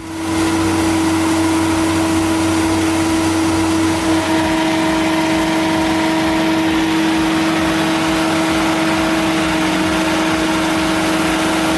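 Firewood processor's engine running steadily under load, a constant hum over machine noise.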